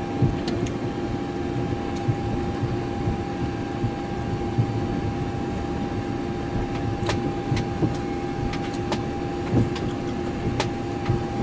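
Airliner flight-deck noise while the aircraft is towed by a tug: a steady hum with two constant tones over a low rumble, and a few light clicks and creaks later on.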